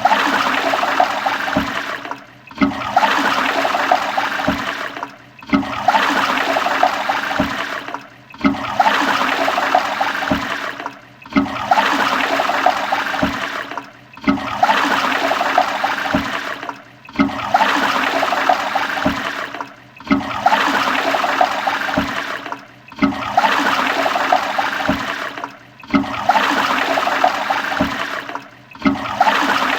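Toilet flushing: a short rush of water that starts sharply and tails off, repeated over and over about every three seconds with a brief gap between each flush.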